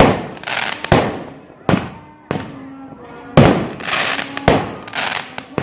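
Fireworks going off in quick succession: about nine sharp bangs in under six seconds at uneven intervals, each trailing off briefly.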